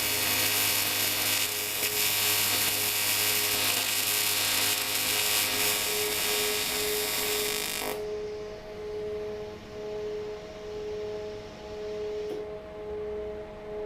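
TIG welding arc on cast aluminium, a loud, steady buzzing hiss as the weld is run, cutting off suddenly about eight seconds in. After it stops, a steady hum is left.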